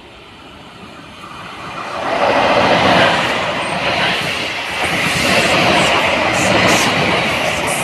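Double-deck electric commuter train coming out of a tunnel and passing close by. The rush of wheels on rail grows quickly about two seconds in, then stays loud and steady as the carriages go past, with a few light clicks near the end.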